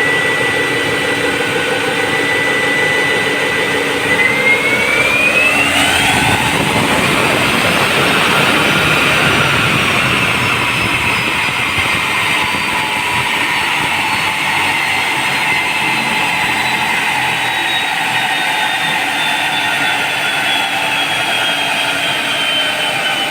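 Toyota Fortuner's VNT turbo-diesel engine revved up and held, its turbocharger whistling: a steady high whine sweeps up sharply about four seconds in as the engine noise swells, then slowly falls back while the engine keeps running.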